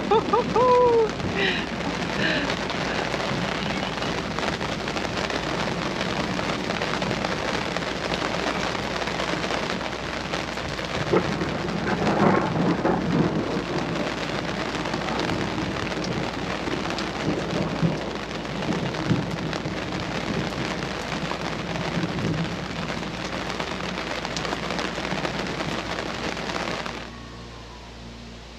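Heavy rain pouring steadily in a thunderstorm, with rolls of thunder, the loudest about twelve seconds in. The sound cuts off suddenly near the end.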